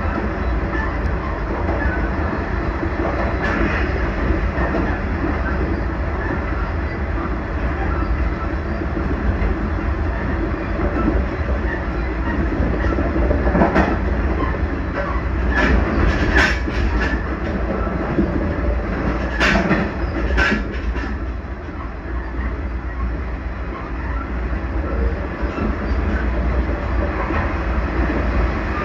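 JR Central 383 series limited express train running at speed: a steady rumble of wheels and motors, with a handful of sharp clacks as the wheels pass over rail joints, grouped about halfway through.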